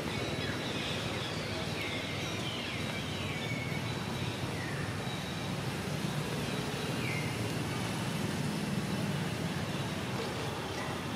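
Outdoor ambience: a steady low rumble with a bird calling over it in short falling chirps, several in the first few seconds and a couple more later.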